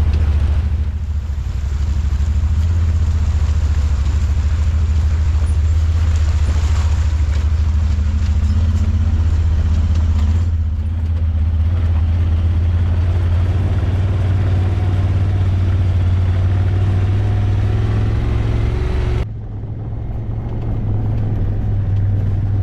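Motor vehicle engine running steadily on the move, a loud low drone with road and wind noise over it. The sound changes abruptly about ten seconds in and again about nineteen seconds in.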